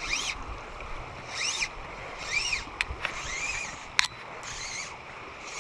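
A songbird singing, repeating a short rising-and-falling chirp about once a second, with two sharp clicks near the middle.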